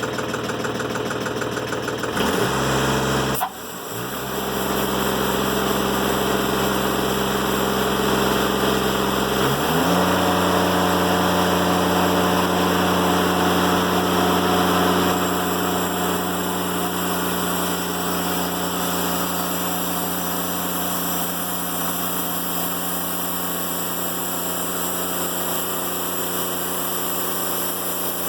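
Timberking 1400 band sawmill's engine running through a cut in a black locust log. Its note shifts and briefly drops between two and four seconds in, then steps up in pitch about ten seconds in and holds steady.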